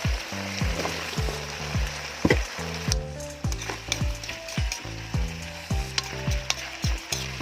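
Food sizzling in a frying pan. Under it, background music with a steady kick-drum beat about twice a second and low sustained bass notes.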